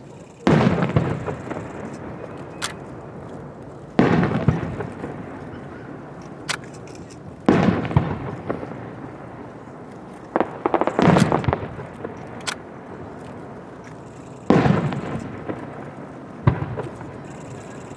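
Aerial fireworks shells bursting: a loud boom every three to four seconds, each followed by a rolling rumble that fades over a second or two, with a quick run of several bangs about two-thirds of the way in. Thin sharp cracks sound between the booms.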